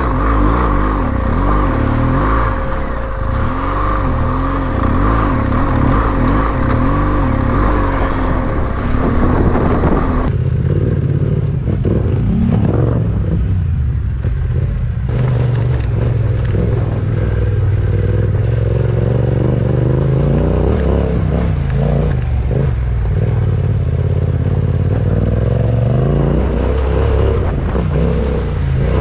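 Yamaha Ténéré 700's parallel-twin engine pulling a motorbike up a rocky off-road climb, its note rising and falling with the throttle, over hiss on the microphone. About ten seconds in, the hiss drops away and the engine settles to a steadier, lower note.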